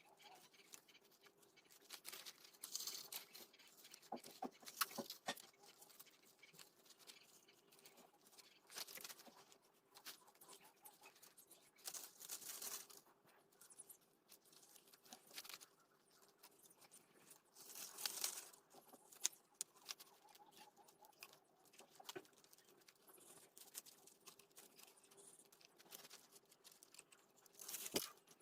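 Faint, scattered rustling and scraping with a few sharp small taps, over a low steady hum.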